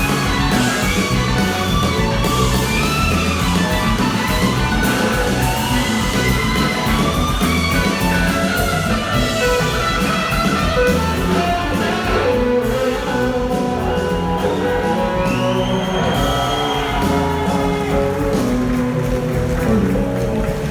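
Live band playing an instrumental passage: an electric guitar lead with gliding notes over bass and drums.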